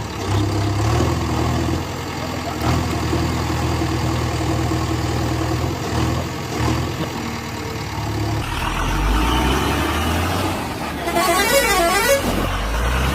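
Heavy diesel engine running at a worksite, its note shifting lower and rougher about two-thirds of the way through. A short wavering, higher-pitched sound comes in near the end.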